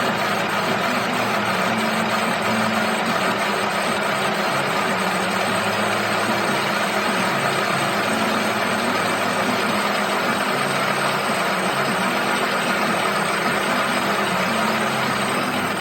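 Metal lathe running with a steady mechanical noise.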